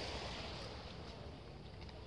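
Wind rumbling on the microphone over the hiss of sea water washing, the hiss fading away during the first second.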